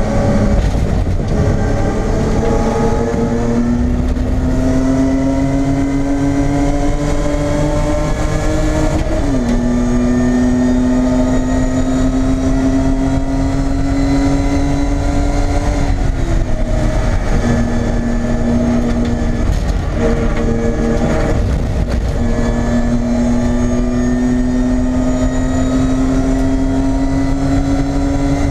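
BMW E30 race car's engine at racing revs, heard from inside the stripped cabin. Its pitch climbs steadily as the car accelerates and drops sharply at an upshift about nine seconds in. After a couple more dips around the middle, it makes a long climb again through the last few seconds.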